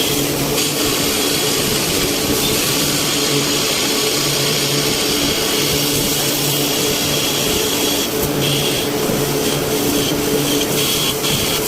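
CNC machining center (VMC) running: a steady mechanical hiss with a low hum that cuts in and out every second or so.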